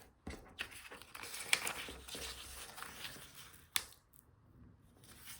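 Sheet of origami paper being folded in half and creased by hand: rustling and crinkling, with two sharp snaps as the fold is pressed. The sound dies down after about four seconds.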